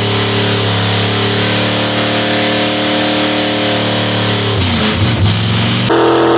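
1955 Chevrolet engine held at high revs while its rear tires spin in a burnout, a steady hiss of tire spin under the engine note. About four and a half seconds in the revs drop and waver, and near the end the sound switches abruptly to the engine running steadily at a higher pitch.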